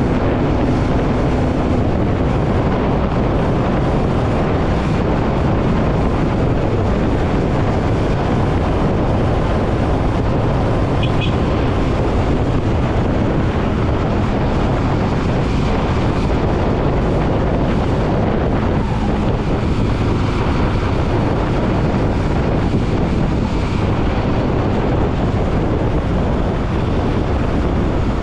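Steady wind rushing over the microphone of a moving motorcycle, with the bike's engine and road noise underneath. Two brief high chirps about eleven seconds in.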